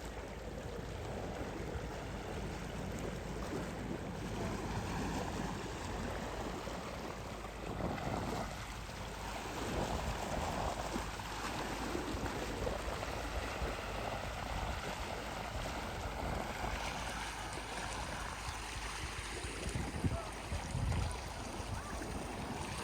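Sea waves washing onto the shore: a steady wash of surf that swells and ebbs, with wind rumbling on the microphone.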